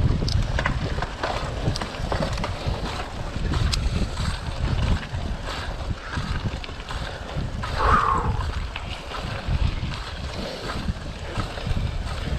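Wind buffeting the microphone, a low rumble that rises and falls, with scattered light clicks and rattles and a brief higher-pitched sound about eight seconds in.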